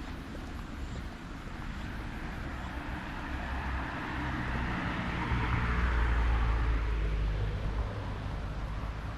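A road vehicle passing, its tyre noise swelling to a peak about six seconds in and then fading, over a steady low rumble.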